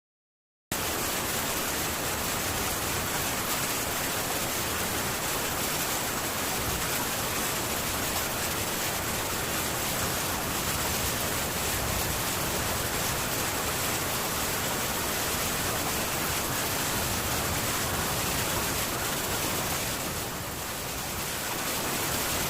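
Heavy rain falling steadily on a metal tin roof, a dense even hiss that starts abruptly about a second in and eases a little for a moment near the end.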